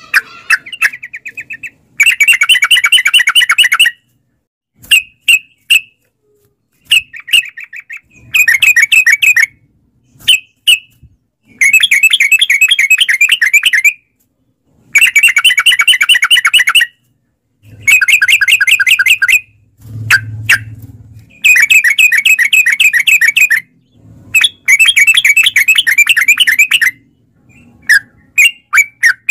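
Yellow-vented bulbul (trucukan) singing long bouts of fast chattering notes, each phrase lasting about two seconds, with short pauses and a few single notes between them.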